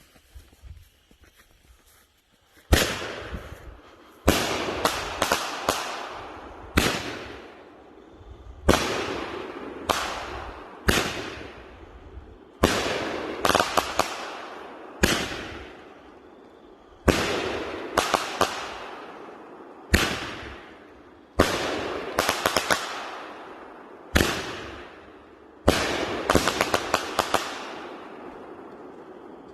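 Raccoon Fireworks 'Flash Bang' 500-gram cake firing: after about three seconds, a long run of sharp, loud bangs every one to two seconds, each fading out, some with quick clusters of extra cracks from the titanium thunder. The bangs stop a couple of seconds before the end.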